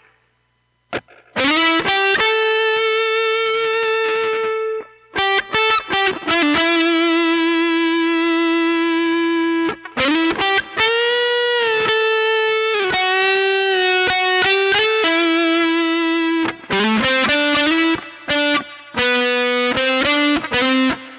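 Custom Les Paul electric guitar played through a Peavey ValveKing II valve amp with distortion. It plays slow lead lines: long sustained single notes with wide vibrato and string bends, separated by short pauses, after about a second of silence at the start.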